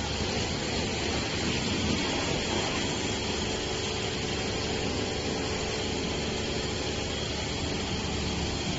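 Self-service car wash machine running: a steady mechanical hum under an even hiss, as of its high-pressure water pump and spray.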